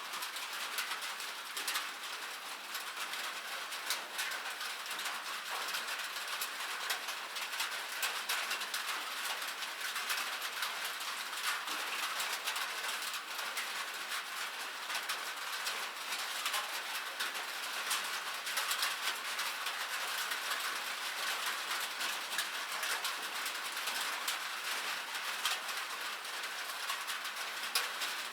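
Steady rain pattering on a metal surface, a dense hiss of countless small drop ticks with no pauses.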